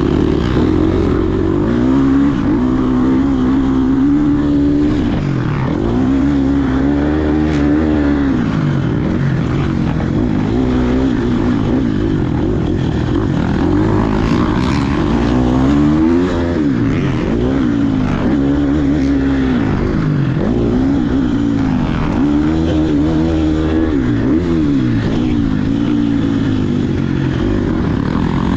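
KTM SX150 two-stroke motocross bike engine being ridden hard, the throttle opened and closed again and again so the engine note rises and falls every second or two without a pause.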